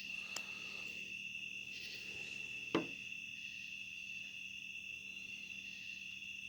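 Night insects, crickets, trilling steadily in a high, even drone, with a single sharp click a little under three seconds in.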